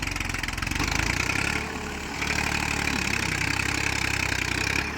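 Massey Ferguson 1035 DI tractor's three-cylinder diesel engine working hard under load while pulling a stuck trolley, its rpm dropping only a little; the sound eases briefly about two seconds in.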